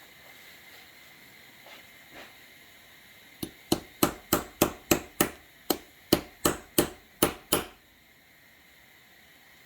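About thirteen sharp metal-on-metal hammer taps, roughly three a second, each with a short ring, as a spun connecting-rod bearing that has bonded to the crankshaft of a blown 347 stroker V8 is knocked to free it.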